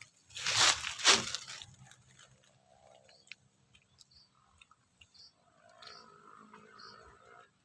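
Crunchy chewing close to the microphone: fried sparrow being bitten and chewed. Two loud crunches come in the first second and a half, followed by faint, softer chewing clicks.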